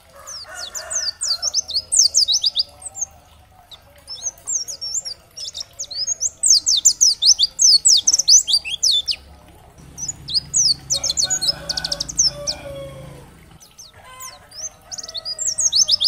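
White-eye (pleci, Dakun Bali type) singing in rapid bursts of high, thin, downward-sweeping chirps, in several phrases with short pauses between them. A lower, rougher sound runs under the song for a few seconds about ten seconds in.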